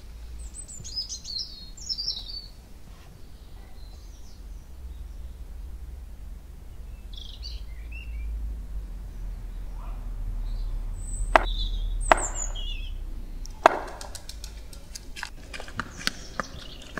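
Birds chirping here and there over a steady low rumble, with three sharp knocks in the second half and a run of faint clicks near the end.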